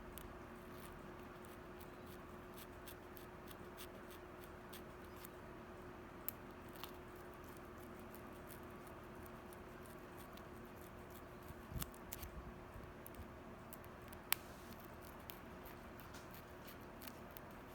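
Faint, quick ticking and scratching of a long, slender-pointed carving knife stabbing up and down through paper over a hole board in tsuki-bori stencil carving, several small clicks a second at an uneven pace. A faint steady hum runs underneath.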